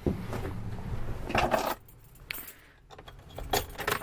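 A bunch of keys jangling and clicking a few times, handled in short bursts with quiet gaps between.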